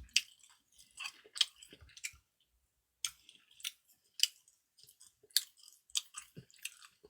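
Close-up chewing: a person eating, with irregular short wet mouth clicks and smacks, pausing briefly about two seconds in.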